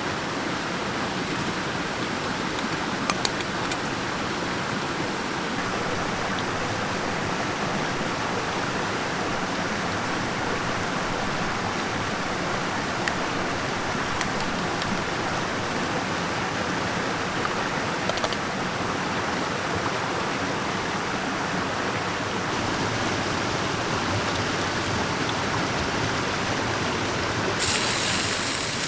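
Mountain stream flowing steadily, with a few faint clicks and a brief hissing burst near the end.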